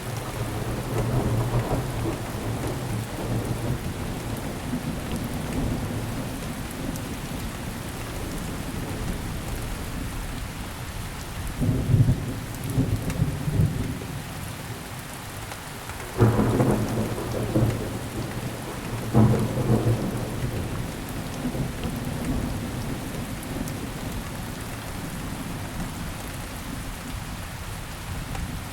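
Steady rain falling, with thunder rumbling through it several times; the sharpest clap comes about sixteen seconds in.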